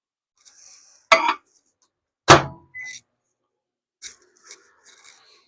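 Two sharp knocks about a second apart, the second heavier, followed by a few light clicks and rustling, from bait molds and tools being handled on a work surface.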